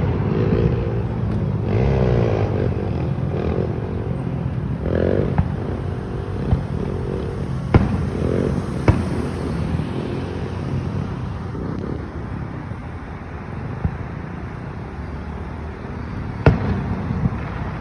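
Fireworks bursting overhead: a few sharp bangs spaced several seconds apart, with two close together around the middle and another near the end.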